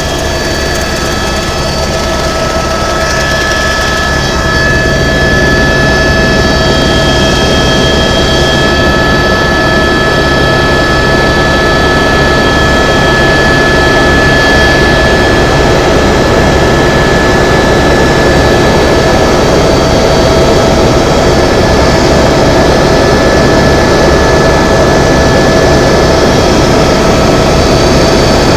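Tour helicopter's turbine and rotor running, heard from inside the cabin: a steady whine over a fast, dense low beat, getting a little louder about five seconds in.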